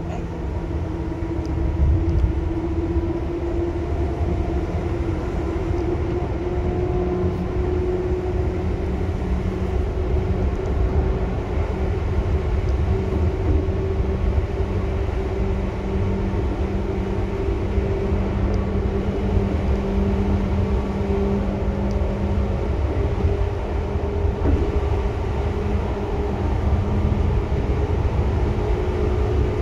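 Seibu 2000 series electric train running steadily, heard from inside the car: a deep rumble of wheels on rails with a few steady hums from the running gear.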